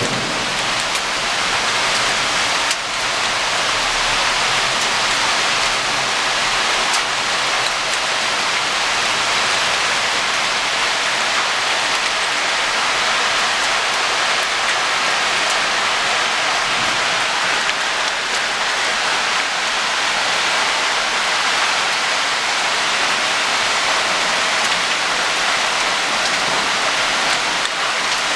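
Rain pouring down steadily in a thunderstorm, a dense, even hiss of drops hitting surfaces.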